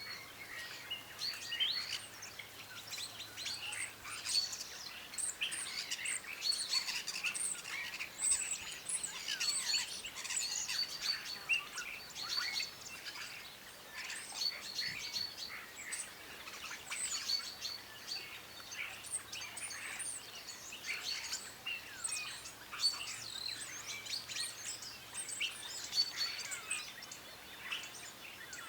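Several birds chirping at once, a dense, unbroken run of short, high-pitched chirps and calls.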